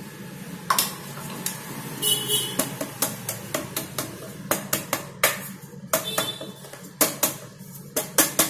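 Metal cake tin being tapped and shaken to spread flour over its buttered sides: a long run of sharp, irregular knocks, at times several a second.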